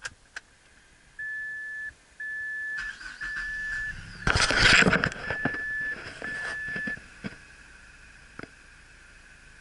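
A Mazda car's warning chime beeps about once a second, five times, while the engine is cranked and catches with a loud burst about four seconds in, then settles to a quiet idle. Two clicks at the very start.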